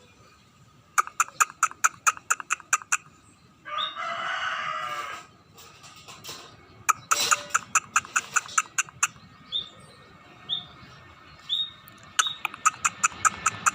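Scaly-breasted munia singing: runs of rapid dry clicks and a few short, high rising whistle notes. A rooster crows once about four seconds in.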